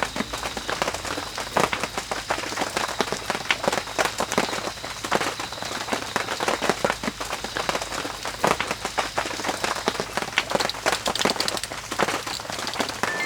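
Rain falling hard on a surface: a dense, irregular patter of drop hits.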